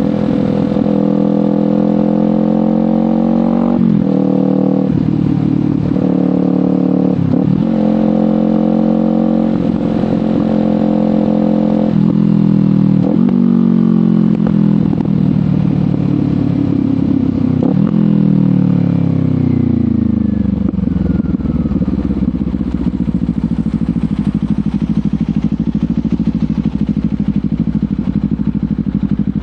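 Kawasaki Ninja 500 parallel-twin engine through a LeoVince GP Corsa Evo exhaust, pulling up through the gears: the revs climb and drop at each of several upshifts in the first half. The revs then fall away steadily under engine braking, and about two-thirds of the way in the engine settles to a low, steady speed.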